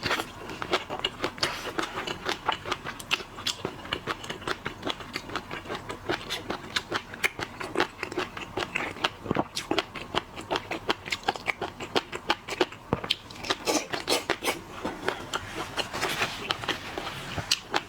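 Close-miked eating of seafood: wet chewing and smacking, with a dense run of quick clicks and crackles.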